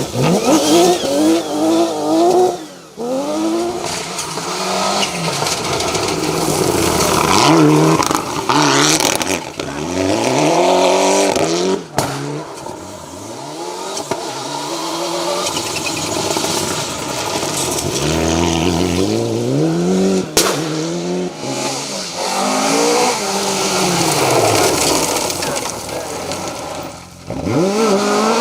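Rally cars passing at speed one after another, engines revving hard and dropping back through gear changes.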